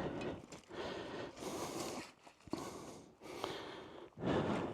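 A person breathing heavily: a string of noisy breaths in and out, about one a second.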